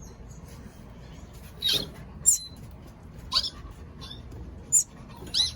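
Baby bird chirping: five short, high-pitched cheeps, each falling quickly in pitch, spaced about a second apart.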